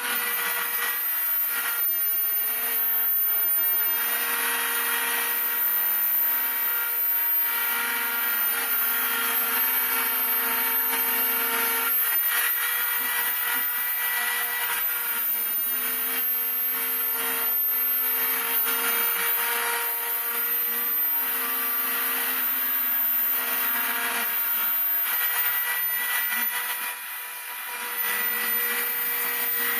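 Homemade CNC router milling model aircraft wing ribs: the spindle runs with a steady high whine, while a lower stepper-motor tone starts and stops every few seconds as the axes move. The sound dips briefly near the end.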